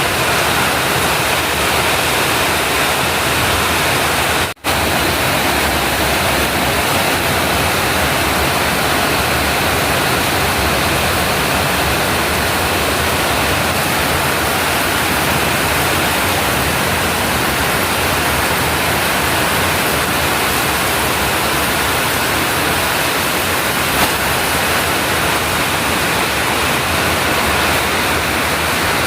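Heavy rain pouring with strong wind: a loud, steady, even rush of noise. It drops out for an instant about four and a half seconds in.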